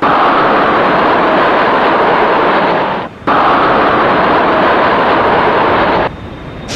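Steady airplane engine noise, cut off abruptly about three seconds in and resuming a moment later, then dropping away sharply near the end.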